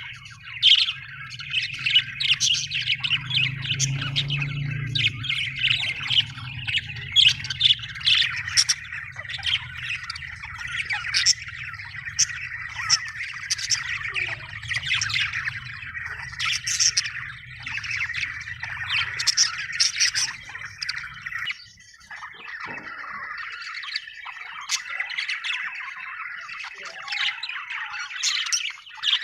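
Budgerigars chirping, warbling and squawking in a steady stream of quick overlapping calls, with a low hum underneath that stops about two-thirds of the way through.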